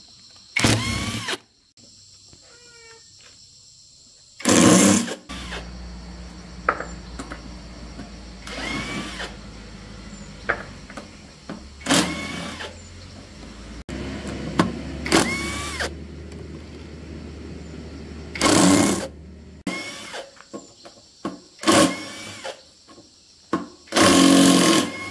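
A power tool run in short bursts about every three seconds, each burst with a brief rising whine. A steady low machine hum runs under it for the middle part.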